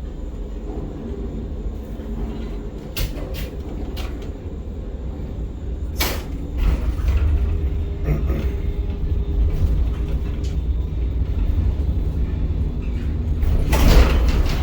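Ship-to-shore gantry crane machinery running with a steady low rumble that grows louder about six seconds in, broken by a few sharp knocks: two about three seconds in, a stronger one about six seconds in, and the loudest near the end.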